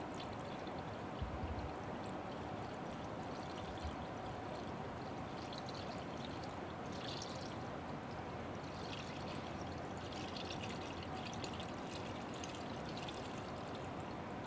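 Diesel fuel poured from a jug into a truck's fuel filter housing to pre-fill it, a steady unbroken pour.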